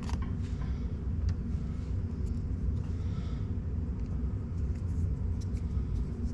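A steady low rumble with a few faint, scattered clicks and taps of small parts being handled.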